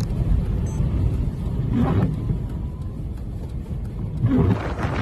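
Steady low rumble of road vehicles, with brief faint voices about two seconds in and again near the end.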